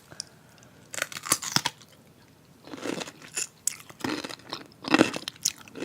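Someone biting and chewing a crunchy snack close to the microphone, in crackly bursts about a second in, around three to four seconds, and loudest near five seconds.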